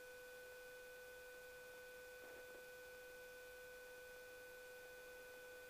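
Near silence with a faint, steady, unchanging tone and a low hiss.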